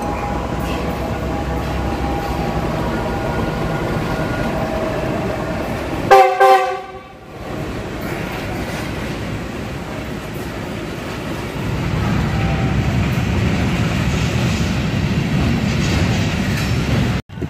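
GE GEU-40 diesel-electric locomotive passing with its engine running, sounding one short, very loud horn blast about six seconds in. After it, the loaded coal hopper wagons rumble past on the rails, the rumble growing heavier in the second half.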